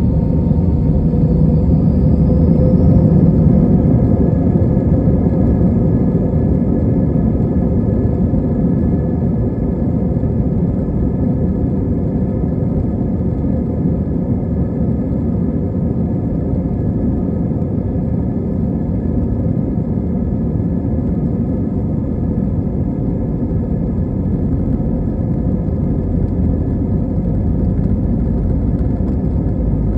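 Airbus A320 jet engines and airframe heard from inside the cabin: a loud, steady rumble with a faint steady whine above it, and a tone rising briefly about two seconds in.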